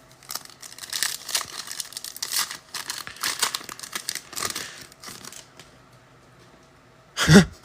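Plastic trading-card pack wrappers crinkling and tearing as packs are ripped open, in irregular rustling bursts that stop about two seconds before the end.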